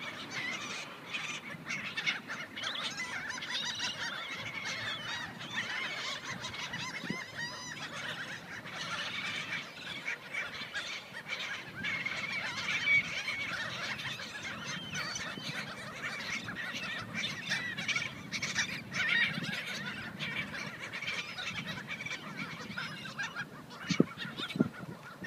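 A flock of seagulls calling over one another in a dense, continuous squawking chorus while squabbling over thrown food, with a couple of sharp knocks near the end.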